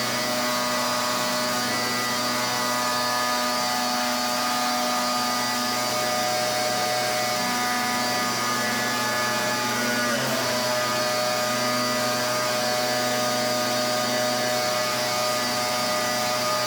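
Pressure washer running steadily: a constant hiss of the water jet over the machine's steady hum of several held tones, which waver briefly about ten seconds in.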